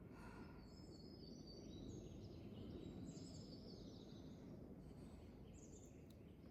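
Faint birdsong: scattered short high chirps and whistles over a low, steady outdoor rumble.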